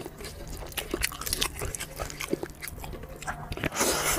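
Close-up mouth sounds of a man eating rice and curry with his fingers: wet chewing and lip smacking in short clicks, with a louder slurp near the end as he brings food to his mouth.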